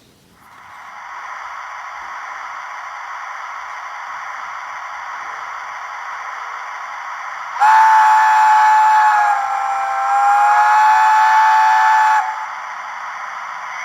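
Model locomotive's sound unit playing a steady steam hiss, then a long steam whistle of several tones over it that dips slightly in pitch and cuts off suddenly; the hiss then carries on alone.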